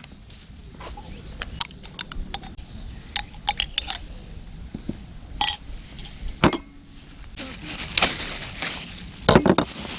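Light metal clinks and taps of camp cookware and utensils being handled, a string of short sharp clicks with a brief ring, heavier knocks about six and a half and nine and a half seconds in, and a short rustle around eight seconds.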